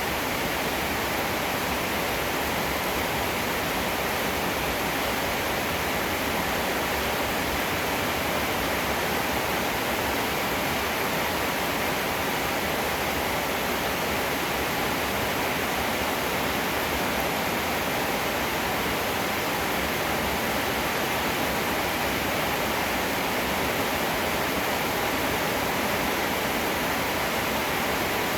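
Heavy rain falling steadily, an even hiss that holds one level throughout.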